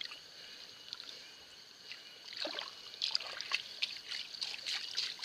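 Shallow water splashing and sloshing in short, irregular bursts from about two seconds in, over a steady trickle of running water.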